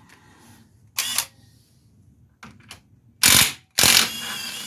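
Compressed air blow gun hissing in bursts: a short blast about a second in, then two loud blasts near the end, the last lasting about a second, blowing off a wheel hub assembly.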